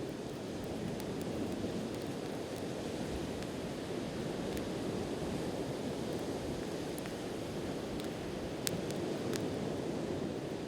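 Steady wash of sea surf with a wood bonfire crackling over it: a few sharp, isolated pops, the loudest one late on.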